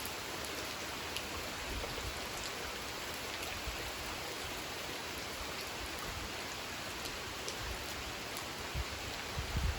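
Steady gentle rain falling on a pond's surface: an even hiss flecked with scattered droplet ticks. A couple of low thumps come near the end.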